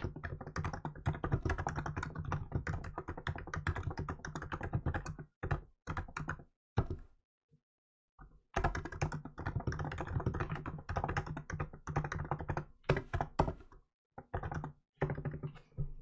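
Fast typing on a Hansung GK868B electrostatic capacitive (non-contact) keyboard with milk keycaps: dense runs of keystrokes. It pauses about five seconds in, with only a few single strokes, then picks up again at a fast pace around eight seconds in, with a brief stop near the end.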